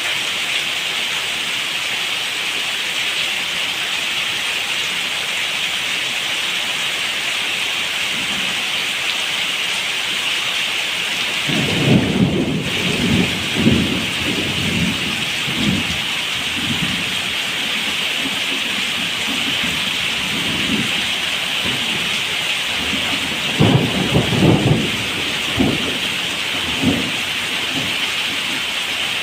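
Steady heavy rain hissing, with thunder rumbling in two bouts, about twelve seconds in and again near the end.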